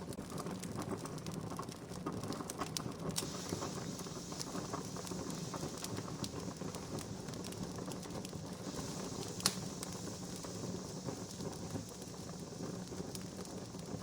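Wood campfire crackling, with many small irregular snaps over a soft hiss and one louder pop about nine and a half seconds in.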